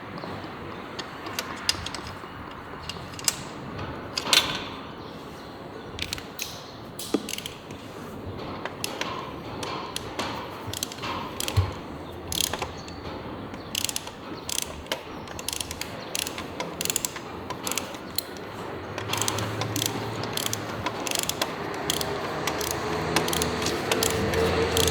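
Irregular metallic clicks and clanks of hand tools, ratchet-like, working on a Honda Wave 110 motorcycle during reassembly. A steady hum with a low tone builds up over the last few seconds.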